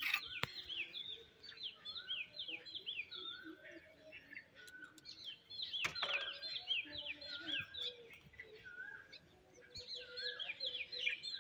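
Small birds chirping, in runs of quick, high downward-slurred chirps with some lower warbling notes, faint in the background. Twice a light tap is heard, once near the start and once about halfway.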